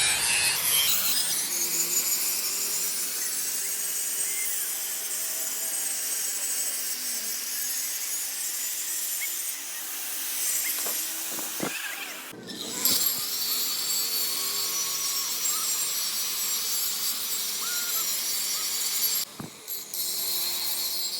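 An electric power tool working on metal for the axle rebuild, making a steady hissing, grinding noise. It breaks off briefly about twelve seconds in and again near the end.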